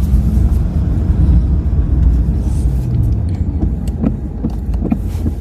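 Steady low rumble of a Tesla Model Y on the move, heard from inside the cabin: road and tyre noise, with a few light knocks near the end.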